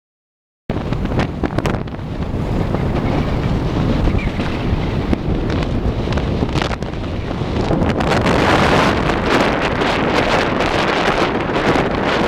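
Wind buffeting the microphone: a loud, rough rushing that starts abruptly just under a second in and gets a little louder from about eight seconds in.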